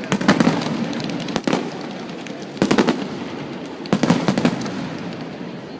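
Fireworks display: shells burst in groups of sharp cracks and crackles about every second and a half, with a lower rumble between the bursts.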